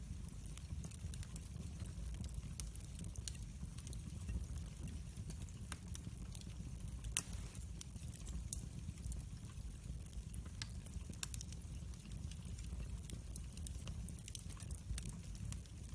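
Wood fire burning, with a steady low rumble and frequent sharp crackles and pops, the loudest pop about seven seconds in.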